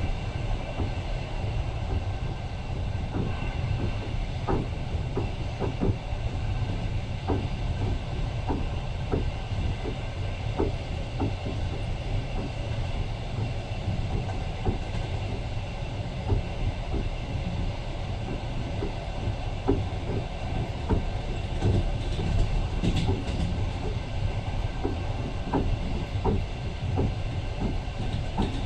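Passenger train running along the track, heard from inside a carriage: a steady low rumble, with the wheels clicking over rail joints every second or so.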